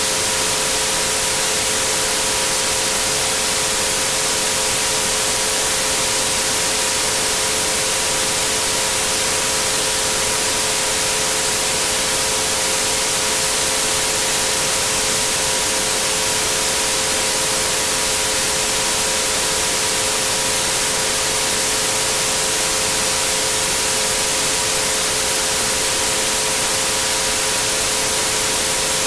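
Steady white noise hiss with three pure sine tones held underneath at 432, 528 and 963 Hz, unchanging throughout.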